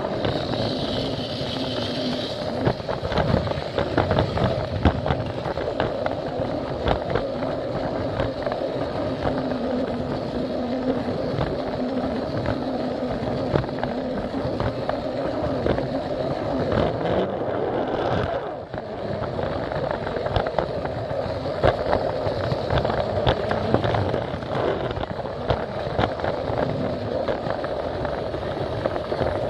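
Battery-powered Plarail toy train running along plastic track: a steady small-motor and gear hum with many small clicks and rattles as it rolls over the track joints.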